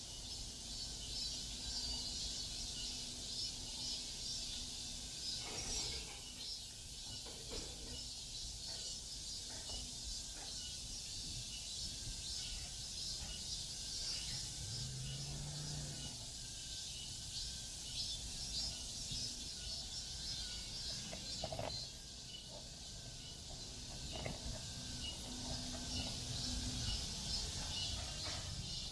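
Summer insect chorus, mostly cicadas, shrilling steadily and high-pitched in the trees, over a low background rumble.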